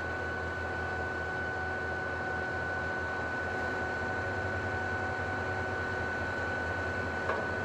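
Truck-mounted concrete pump running steadily while its boom folds up: a low engine hum with a constant high whine over it. A faint click comes near the end.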